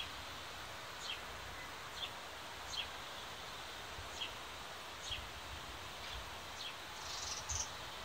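Backyard ambience: a bird calling repeatedly with short, high, downward-sliding chirps, about one a second, over a steady background hiss of outdoor noise. Near the end a slightly louder, rougher pair of notes.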